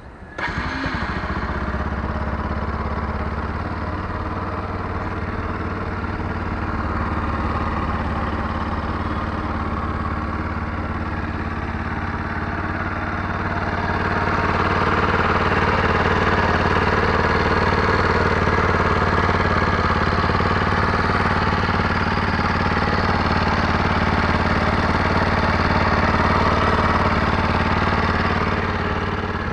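Stock exhaust of a Bajaj Pulsar NS200's single-cylinder engine idling steadily, coming in abruptly about half a second in. It grows louder from about halfway through and eases back near the end.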